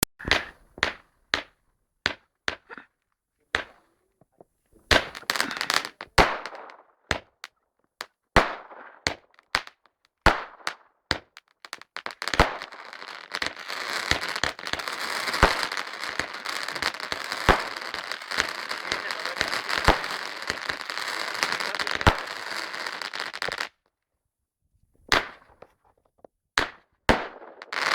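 Consumer firework cake (fireworks box) firing: a run of sharp single shots, each a loud bang, then about eleven seconds of dense continuous crackling with bangs through it that stops suddenly, and after a short gap more single bangs.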